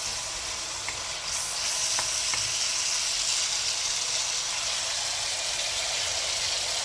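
Chopped onion and garlic sizzling in hot oil in a wok: a steady frying hiss that grows louder about a second in, with a few faint ticks.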